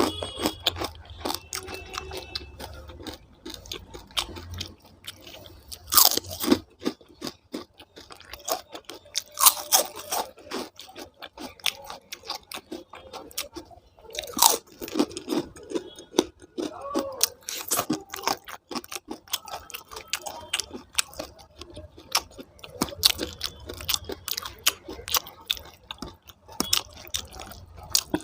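Close-miked eating: a person chewing and crunching food with wet mouth clicks, made irregular by several louder crunchy bites.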